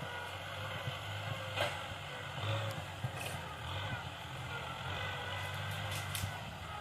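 Kubota tractor engine running steadily while plowing, with a few sharp clicks about a second and a half, three seconds and six seconds in.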